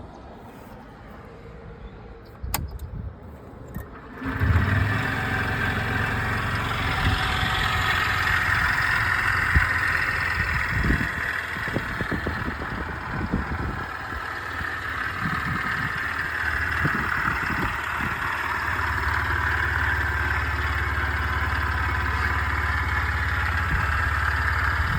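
Honda Gyro Canopy scooter's small single-cylinder engine: a click about two and a half seconds in, then the engine starts about four seconds in and keeps running, its low hum growing stronger in the last few seconds. The owner says the engine makes an abnormal noise.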